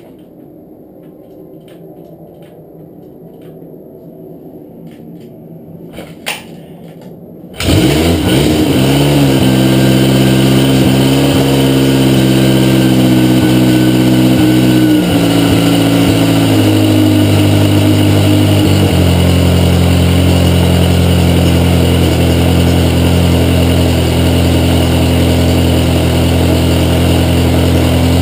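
A homebuilt 1952 Nimbus inline four-cylinder motorcycle engine, bored out to 800 cc, starting from stone cold. After several seconds of quiet with faint clicks, it catches about eight seconds in and runs at a fast idle, which drops in two steps to a lower steady idle as it settles.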